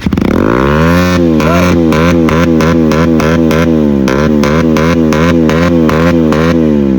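Motorcycle engine revved up and held at the rev limiter, the revs bouncing up and down about four times a second with rapid exhaust pops, then dropping back near the end. The pops come from deliberately making the exhaust backfire.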